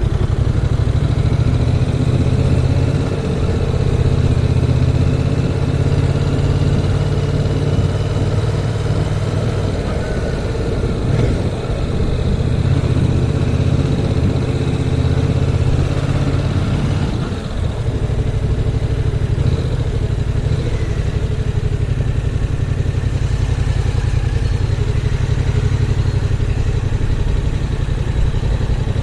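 Yamaha MT-07's 689 cc parallel-twin engine running steadily, with wind noise on the helmet-mounted camera's microphone; the engine note dips briefly about two-thirds of the way through.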